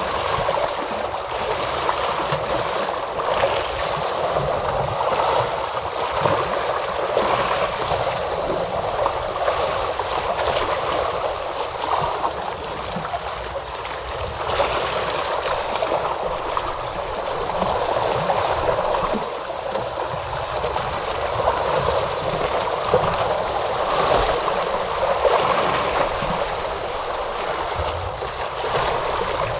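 Moving water: a continuous rush of small splashes and gurgles that swells and eases gently every few seconds.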